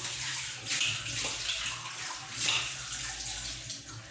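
Kitchen tap running, its water splashing over a pot lid being rinsed under it, the splash swelling and easing several times.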